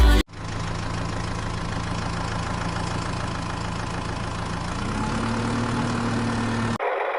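Engine running steadily at a low pitch, its note rising a little about five seconds in. It starts and cuts off abruptly.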